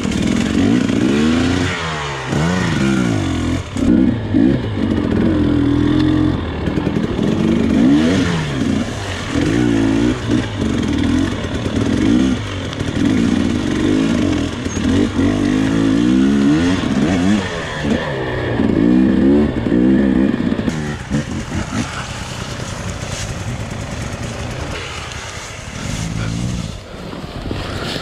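Off-road dirt bike engine revving up and down over and over as it is ridden slowly over rough, log-strewn woodland trail. For the last several seconds it runs quieter and steadier.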